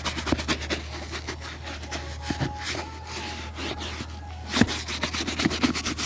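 Quick repeated rubbing strokes on a leather shoe during a shoe shine, over a steady low hum.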